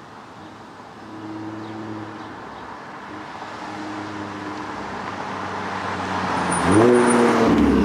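Audi S4 B8.5's supercharged 3.0-litre V6 with an AWE exhaust on test pipes, running at low revs. About six and a half seconds in it accelerates, and the exhaust note rises in pitch and gets louder.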